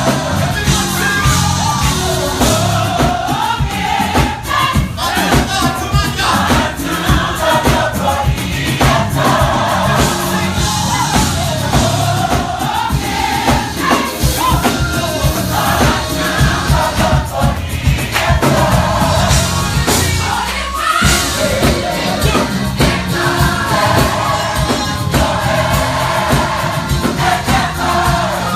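Gospel choir singing with a live band, drums and bass keeping a steady beat.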